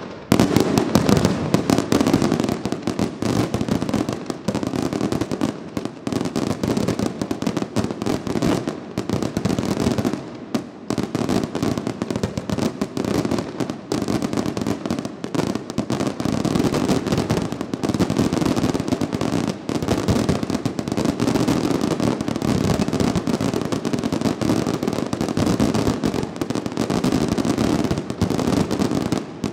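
Fireworks display going off in a dense, continuous barrage of rapid bangs and crackles, with a brief lull about ten seconds in.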